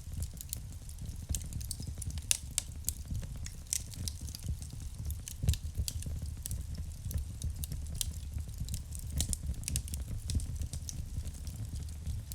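Wood fire burning in a fireplace: a steady low rumble of the flames with many sharp, irregular crackles and pops, the strongest about two and five and a half seconds in.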